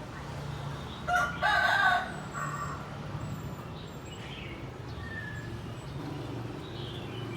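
A rooster crowing once, about a second in, a single call of roughly a second, over a steady low hum.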